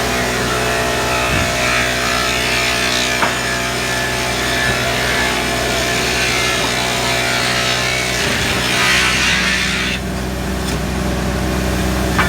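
Sawmill machinery running with a steady motor hum while a saw cuts through timber. The cutting noise rises twice, the second cut ending abruptly about ten seconds in.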